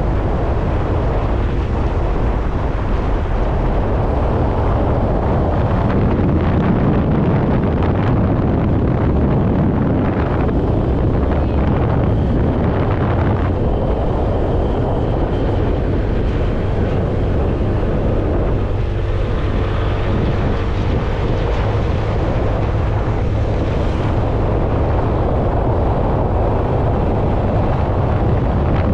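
Steady wind noise on the microphone over a motorcycle running at riding speed.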